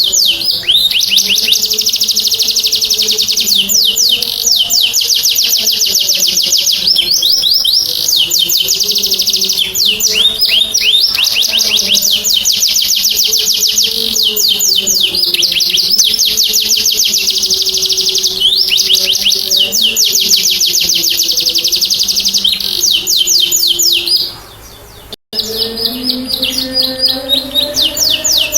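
Domestic canary singing in long, fast rolling trills of rapidly repeated high notes, broken by short glides between runs. Faint lower tones run underneath. About 25 seconds in, the song drops away briefly and cuts off abruptly before starting again.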